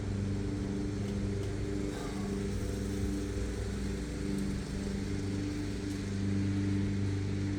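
A lawn mower engine running steadily, an even low drone, with a few faint clicks.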